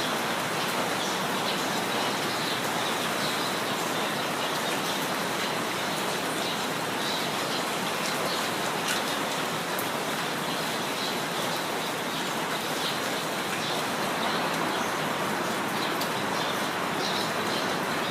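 Steady rain falling, with small birds chirping now and then over it.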